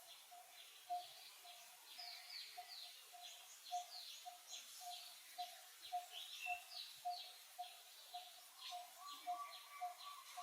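Birds calling: one note repeated evenly, about two or three times a second, under a jumble of short, high, falling chirps. A second steady call joins near the end.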